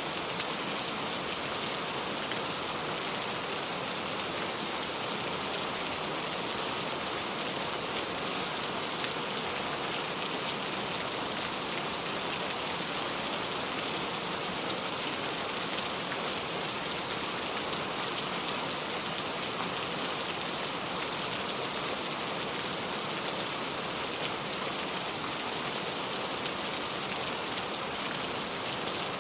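Heavy rain pouring steadily, a dense even hiss of drops with faint fine patter on a surface.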